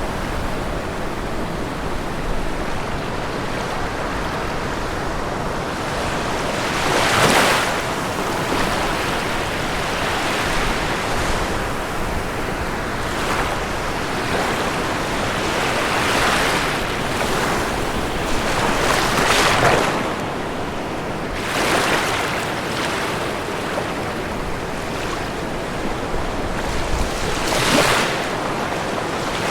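Ocean waves washing onto a shore: a continuous rushing wash, with a wave breaking and surging louder every few seconds, the clearest about 7 and 28 seconds in.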